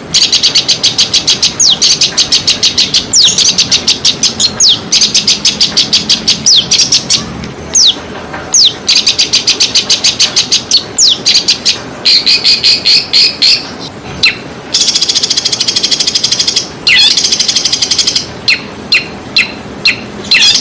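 A songbird singing loudly in long, fast rattling trills of rapidly repeated high notes. Sharp downward-swooping whistles are mixed in, with brief pauses between phrases.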